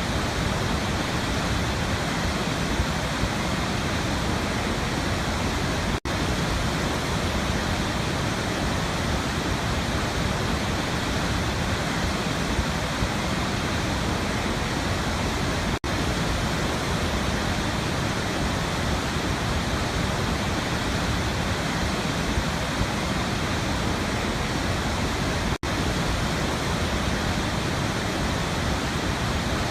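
Waterfall: water falling and splashing in a steady, even rush, broken by three very brief dropouts about ten seconds apart.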